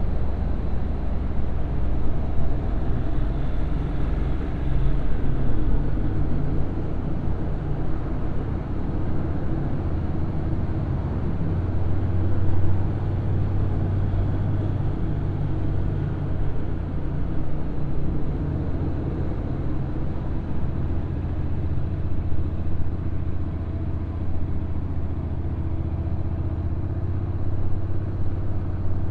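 Honda NC750X DCT motorcycle riding along, its parallel-twin engine running steadily, with the low rumble of engine, wind and road noise and no sharp events.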